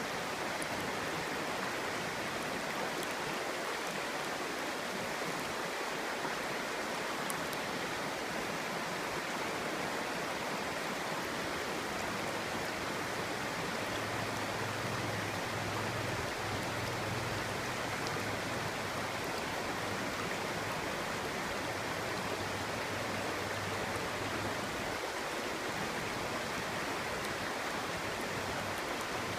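Clear stream burbling and rushing over stones, a steady, even water noise.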